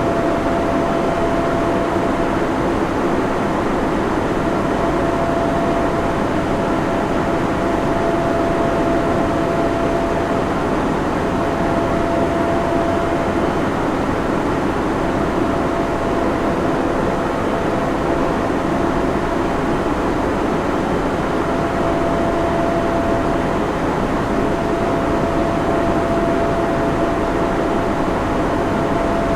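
Server room ambience: the steady rush of many cooling fans, with a faint whine at one fixed pitch that comes and goes.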